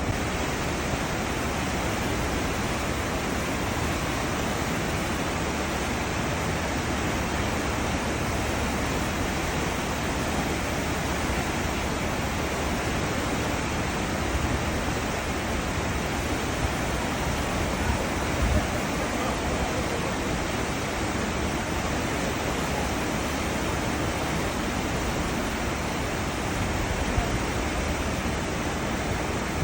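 Steady rushing and churning of a cruise ship's wake, seawater foaming behind the hull, with a few brief low bumps about halfway through and near the end.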